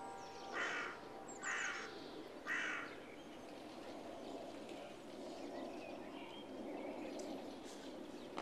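A bird calling three times, about a second apart, each call short, over steady background noise.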